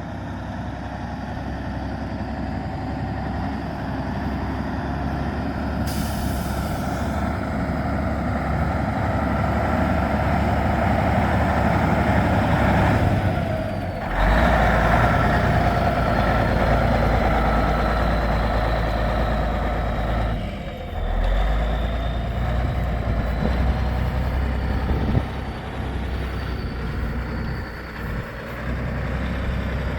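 White truck tractor's engine running and pulling harder, its sound building over the first dozen seconds, then briefly dropping off about halfway through and again a few seconds later before picking up each time, as in gear changes. A short hiss of air comes early on.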